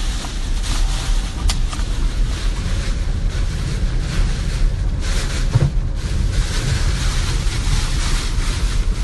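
Hurricane wind gusting against the microphone, its hiss rising and falling, over the steady low rumble of a car driving.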